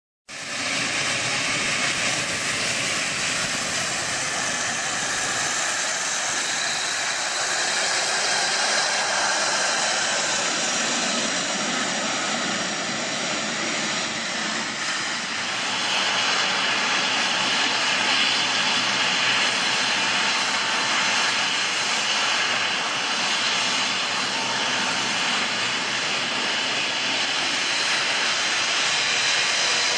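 Boeing 777-300ER's GE90-115B turbofan engines running on takeoff: a steady, loud jet noise with faint high whining tones, growing a little louder about halfway through.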